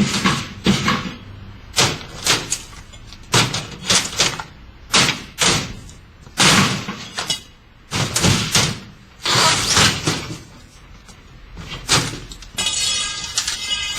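A washing machine being struck hard again and again: about a dozen irregular blows on its body, some leaving a ringing tail. Near the end comes a sustained ringing clatter.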